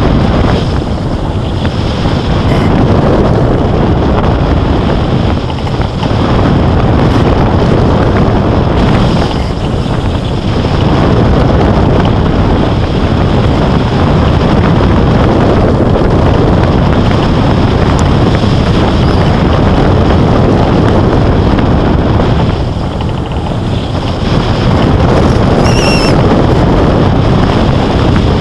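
Wind rushing over the microphone in flight, a loud steady roar that eases for a moment twice.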